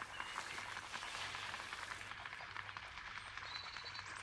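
Faint outdoor ambience: a soft hiss with light crackling ticks, and a few faint bird chirps near the end.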